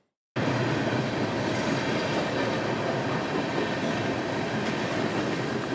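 A loud, steady rumbling noise that cuts in abruptly after a split second of dead silence and then holds at an even level.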